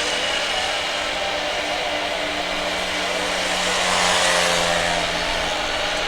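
Boeing 747 jet engines running: a steady rushing noise with a few held whining tones, swelling louder about four seconds in and then easing back.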